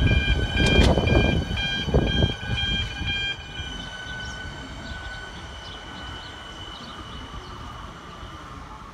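Siemens Nexas electric train passing close, its wheels clattering over the rails, then fading to a quieter rumble with a thin high whine about three seconds in as it pulls away. A pulsing electronic level crossing bell rings through the first few seconds.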